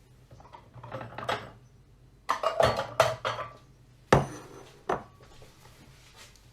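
Kitchenware being handled: a brief clatter of dishes and utensils about two seconds in, then two sharp single knocks, the last leaving a faint ring.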